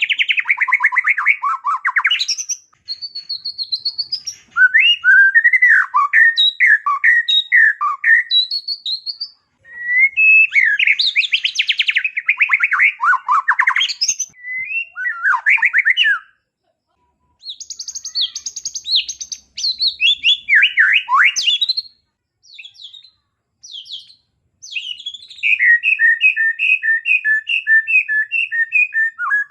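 White-rumped shama (murai batu) singing a long, varied song of fast trills, whistled glides and chattering phrases mimicking small birds, broken by short pauses. Near the end it gives a quick run of repeated two-note calls.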